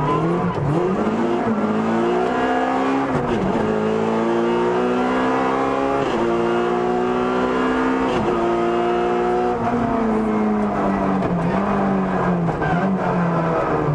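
Opel Kadett E GSI 16V rally car's four-cylinder 16-valve engine heard from inside the cabin, accelerating hard up through the gears: the revs climb and drop sharply at three upshifts about three seconds apart. They then hold briefly and fall away as the car slows, with a couple of short blips on the downshifts near the end.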